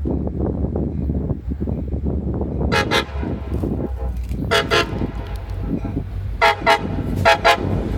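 A train sounding a series of short toots, mostly in pairs, starting about three seconds in, over a steady low rumble.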